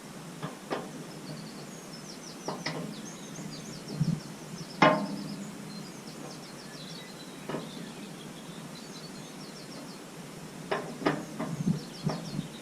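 Scattered short knocks and clicks of hand tools, the loudest about five seconds in and a few close together near the end, with small birds singing high, quick trills in the background.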